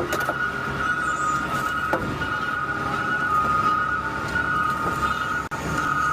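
Peterbilt 520 automated side-loader garbage truck running, a steady high-pitched whine held over a low engine rumble, with a couple of faint clicks.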